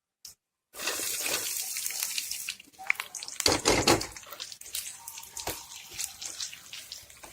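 Sliced onions dropped into hot oil in a pan and sizzling, the hiss starting about a second in. The sizzle then drops lower under crackling and stirring, with one louder clatter about three and a half seconds in.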